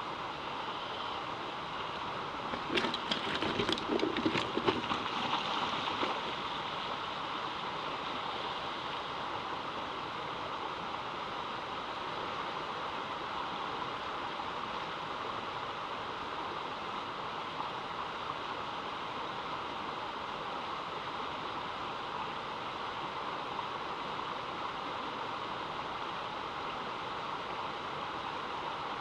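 Stream water flowing steadily in an even rushing noise. About three seconds in comes a two-second cluster of sharp knocks and splashes.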